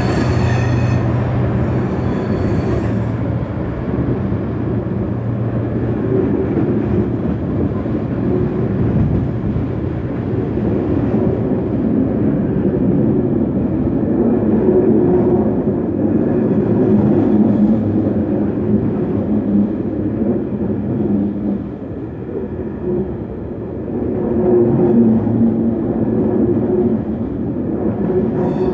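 Loaded ballast box wagons of a freight engineering train rolling steadily past, a continuous rumble of wheels on rail with a humming ring, briefly quieter about three quarters of the way through.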